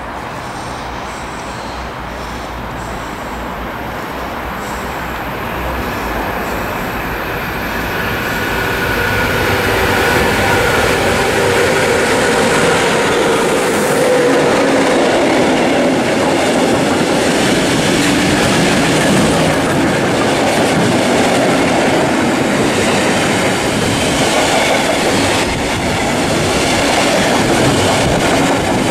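A train on electrified main line approaches and runs past, growing louder over the first ten seconds and then holding steady as the wagons roll by with wheels clattering over the rails.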